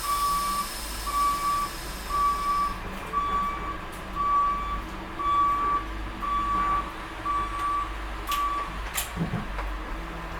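School bus reversing alarm beeping at a steady pace, about one beep every three-quarters of a second, over the engine running as the bus backs up. The beeping stops about nine seconds in, followed by a couple of sharp clicks.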